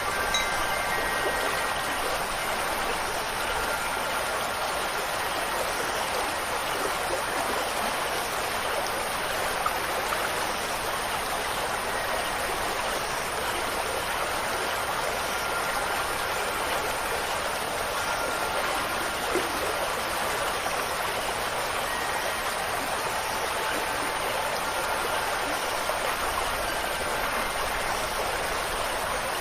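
Steady rushing of flowing water, like a stream or small waterfall, with faint ringing tones of wind chimes here and there.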